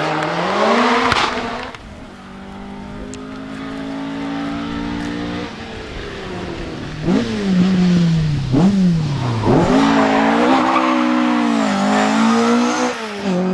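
Rally car engine running hard on a stage. The revs climb, hold steady, then rise and fall sharply a few times with throttle blips before the car accelerates loudly with wavering high revs near the end.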